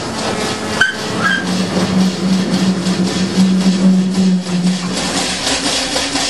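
Two-foot narrow-gauge locomotive running along the track, a steady rumble of engine and wheels with a low hum through the middle and a brief metallic squeak about a second in.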